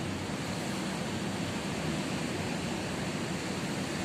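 Ocean surf: a steady wash of breaking waves with no single crash standing out.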